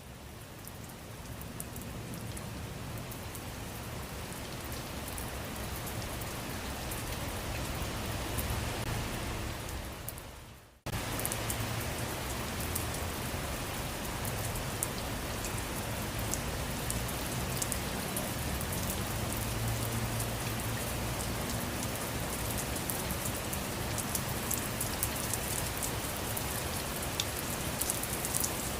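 Steady rain falling on a surface, with many small drop ticks through it. It fades in at the start, dies away about ten seconds in and comes back suddenly a moment later, like a join between looped takes.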